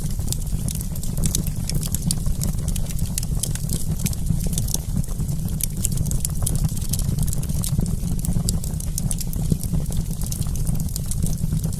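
Wood campfire crackling: many small pops and snaps in quick, irregular succession over a steady low rumble.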